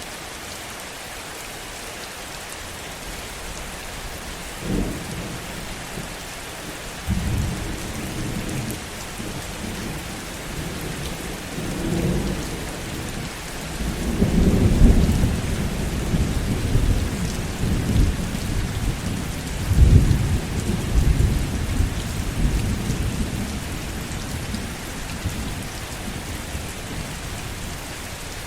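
Steady heavy rain with a thunderstorm overhead. A short clap about five seconds in is followed by a long low rolling rumble of thunder that swells twice and fades away near the end.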